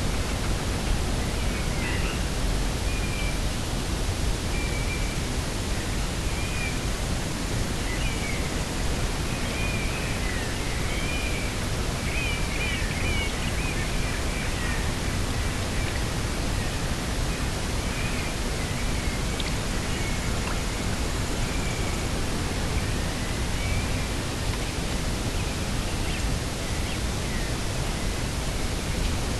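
Steady rushing wind noise with a low rumble, over which a small bird twitters in short chirps, busiest around ten to fifteen seconds in.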